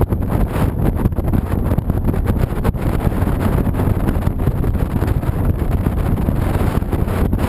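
Honda VTX 1300C motorcycle's V-twin engine running at riding speed, steady and loud, heavily overlaid by wind buffeting the camera microphone.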